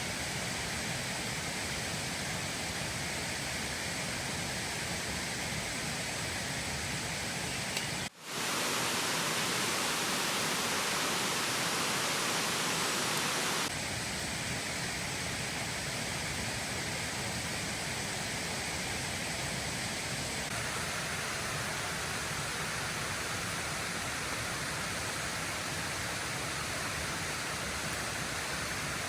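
Steady rush of falling water, a dense even hiss of waterfall spray or heavy rain. It drops out briefly about eight seconds in and changes tone abruptly there and again about fourteen seconds in.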